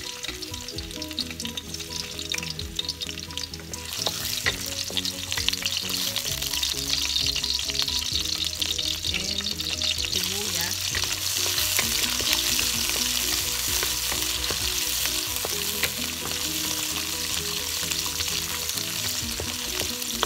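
Chopped garlic and onion sizzling in hot oil in a wok as they are sautéed, stirred with a wooden spatula. The sizzle gets clearly louder about four seconds in.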